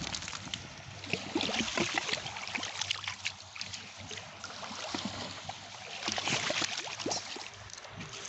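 Sea water washing in at the shore, a fizzing wash full of small crackles and splashes. It swells twice, about a second in and again near six seconds.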